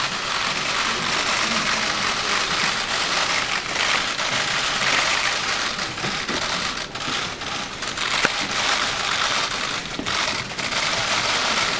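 Many camera shutters clicking rapidly and overlapping in a dense, continuous clatter.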